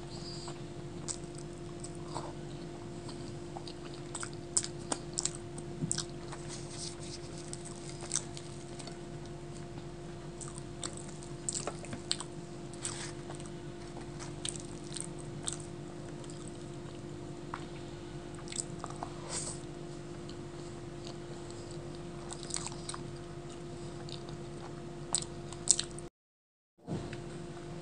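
Close-miked eating: wet chewing, biting and mouth clicks as luchi (puffed fried bread) with aloor dum potato curry is eaten by hand, over a steady low electrical hum. The sound cuts out briefly about a second before the end.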